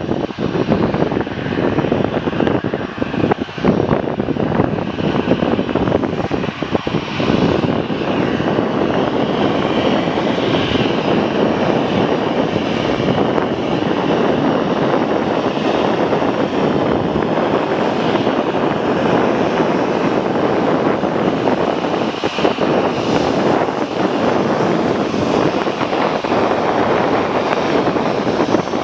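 Airbus A319 airliner's jet engines running at taxi power: a steady, loud rush of engine noise with a faint high whine over it.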